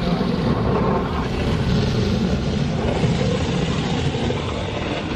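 Automatic car wash machinery running over the car, heard from inside the cabin: a loud, steady rushing noise.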